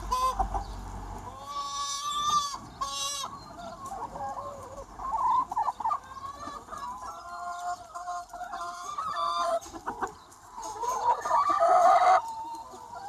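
Large free-range chicken flock, many hens clucking and calling over one another. Near the end a louder drawn-out call rises above the flock and cuts off suddenly.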